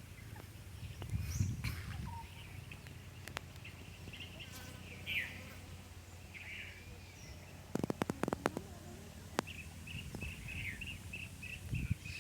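Birds chirping in short repeated calls over a low steady rumble, with a quick cluster of sharp clicks about eight seconds in.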